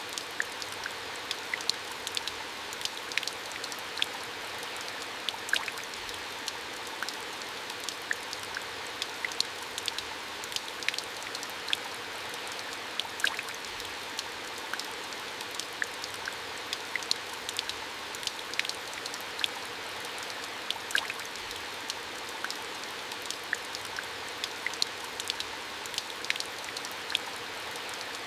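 Running water: a steady rush with many small, irregular drips and splashes ticking through it, several a second.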